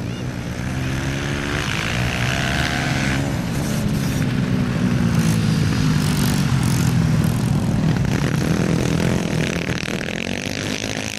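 Single-cylinder four-stroke racing motorcycle engines revving hard on the ice oval: the pitch rises over the first few seconds, holds high through the middle and eases off near the end.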